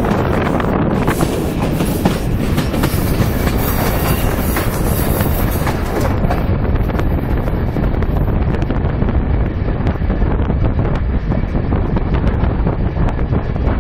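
A passenger train's wheels running over the rails, heard from aboard. There is a steady loud rumble with scattered clicks from the track, and the sound turns a little duller about six seconds in.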